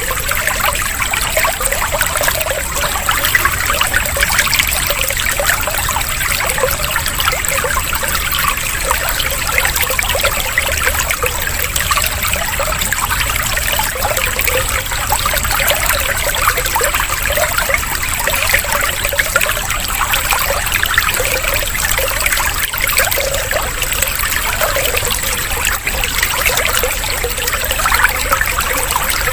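Running water trickling and splashing steadily, with no breaks.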